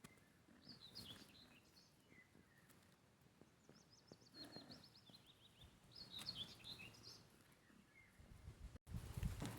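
Songbirds singing faintly: short chirping phrases, with a fast trill of repeated notes in the middle. Near the end the sound cuts and a louder rustling begins.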